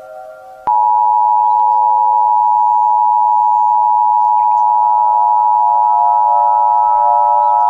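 Emergency Alert System attention signal: a loud, steady two-tone beep near 1 kHz (the 853 and 960 Hz pair) that starts about a second in and holds. Fainter steady tones hum beneath it.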